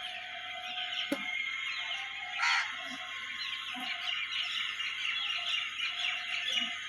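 A brood of chicks peeping, many short high chirps overlapping without a break. A brief louder sound comes about two and a half seconds in.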